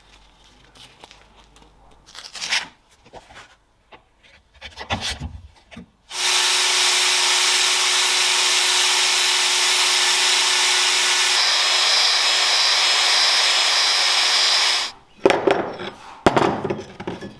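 A few light knocks and rubs of work being handled. Then an electric power tool runs at a steady speed for about nine seconds with a steady hum, and stops. More clattering knocks follow near the end.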